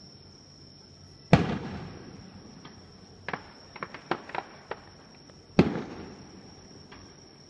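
Aerial fireworks bursting: two loud booms about four seconds apart, each trailing off in a rolling echo, with a quick run of smaller sharp pops between them.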